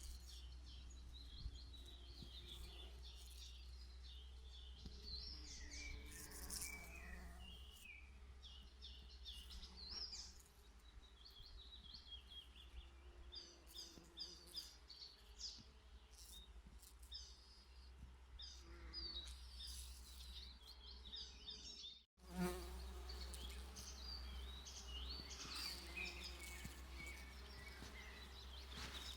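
Bees buzzing around flowers while small songbirds chirp with short, repeated high notes. The sound cuts out for an instant about two-thirds of the way through.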